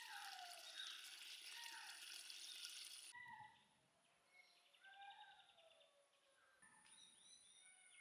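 Birds calling with short falling whistles, repeating every second or so, over a faint steady high-pitched tone. For the first three seconds a loud hiss covers the calls, then stops abruptly.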